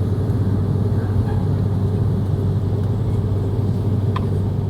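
Airbus A330-300 engine and airflow noise heard inside the cabin: a steady low drone with a strong hum.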